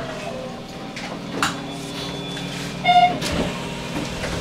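Hanshin Railway electric train running and slowing, with a steady low rumble; its motor whine falls in pitch and fades out in the first half second. A sharp click about a second and a half in, and a short electronic beep about three seconds in.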